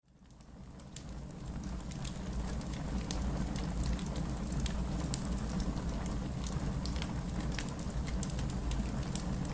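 Wood fire burning in a fireplace: a steady low rumble of flames with frequent irregular sharp crackles and pops from the burning logs. It fades in from silence over about the first second.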